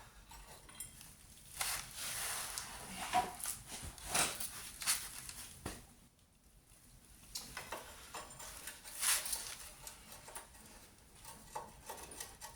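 Metal hand tools clinking and scraping as sockets or spanners are tried on the subframe bolts to find their size, with a pause a little before the middle.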